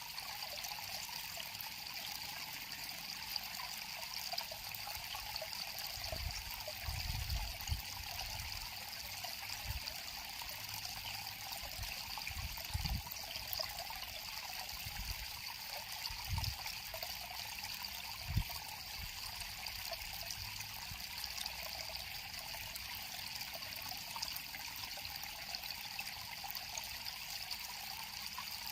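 River water flowing and trickling in a steady splashing hiss, with a few soft low thumps scattered through the middle.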